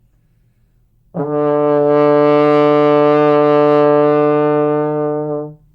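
Trombone holding a single low D, fourth position, for about four seconds: one steady note starting about a second in, played with fast air so that it sits up in its proper place rather than sagging flat.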